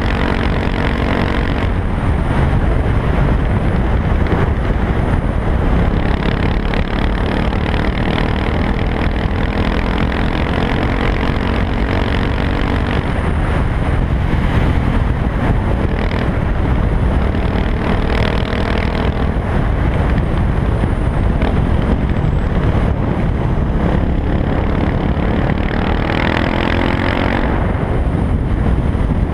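2020 KTM 690 SMC R's single-cylinder engine running through an Arrow exhaust with no dB killer, its revs rising and falling several times over a constant low rumble.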